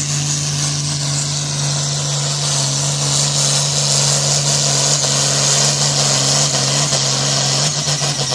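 Pulling tractor's engine running hard at steady high revs with a loud exhaust roar, holding one pitch through the pull. It breaks off and falls away near the end as the pass ends.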